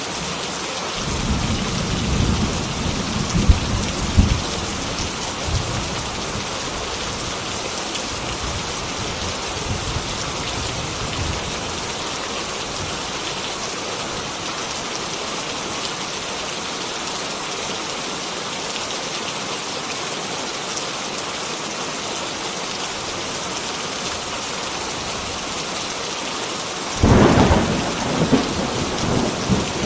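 Heavy rain falling steadily, with a low roll of thunder a second or so in and a sudden, louder thunderclap rumbling near the end.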